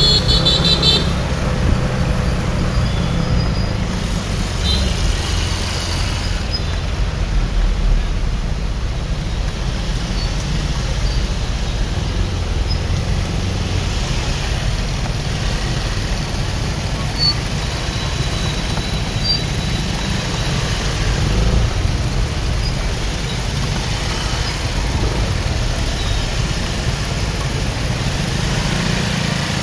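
Motorbike riding through city traffic: a steady low engine and road rumble, with other traffic around. A short high-pitched horn beeps right at the start.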